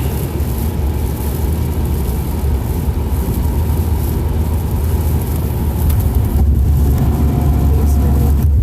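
Steady road noise inside a moving car driving in the rain: a low rumble with an even hiss from the tyres and the wet road.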